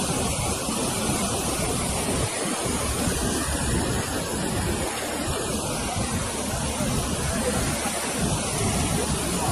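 Steady rushing of water, an even unbroken noise with no distinct splashes or knocks, typical of floodwater or torrential rain.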